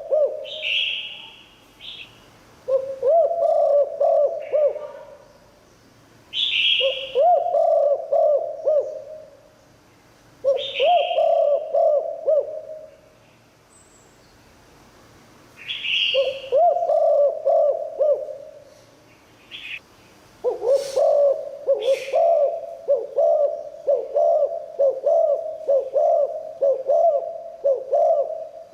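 Spotted dove cooing: low, rolling coo phrases repeated about every four seconds, then running into a longer unbroken series of coos about two-thirds of the way in. Short, higher chirps come between the phrases.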